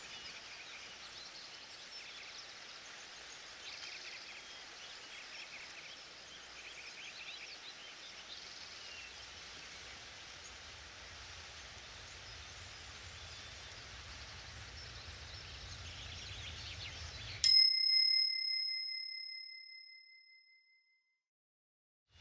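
Forest ambience with faint bird calls, cut by a single bright bell ding about 17 seconds in that rings out over a few seconds into silence. The ding is the interval-timer signal marking the end of a one-minute set.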